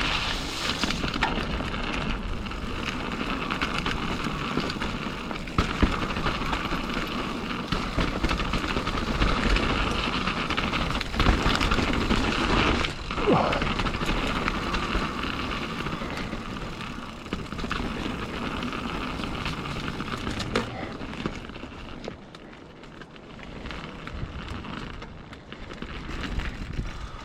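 Mountain bike descending a dirt trail: a continuous rush of tyre and drivetrain noise with scattered knocks and rattles over bumps, dropping quieter about two-thirds of the way through.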